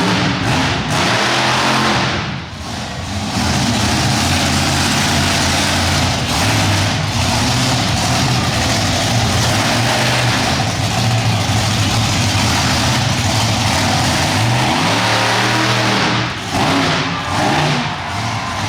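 Monster truck engine running loud under throttle, revving, with brief let-offs about two seconds in and again near the end.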